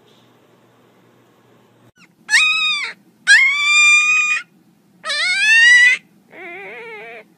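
A black-and-tan puppy howls in high-pitched yelps: three loud, drawn-out cries starting about two seconds in, then a quieter, lower, wavering howl near the end.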